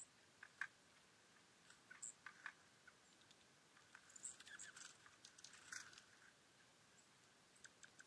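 Small birds giving faint, short chirps and clicks at irregular intervals, busiest between about four and six seconds in.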